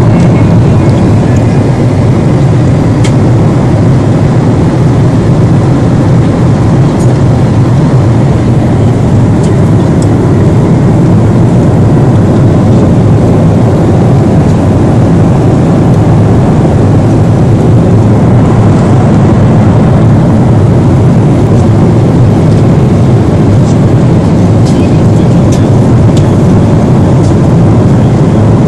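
Steady, loud drone of an airliner in flight, heard inside the passenger cabin: jet engine and airflow noise, with a few faint ticks.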